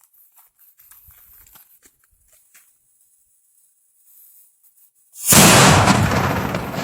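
Homemade sparkler bomb exploding: a sudden, very loud blast about five seconds in, followed by a long noise that fades only slowly.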